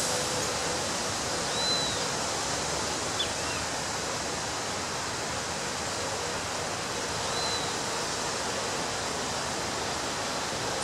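Ocean waves breaking on a beach, heard as a steady rushing surf. Two faint, short, high chirps sound over it, about two seconds in and again near the end.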